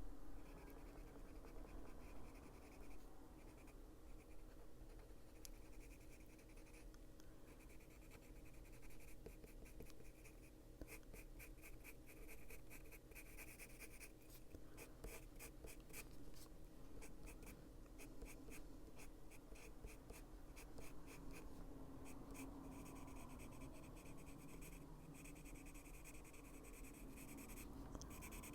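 Faint scratching of a Luminance coloured pencil on paper, in runs of quick short strokes as feathers are shaded darker.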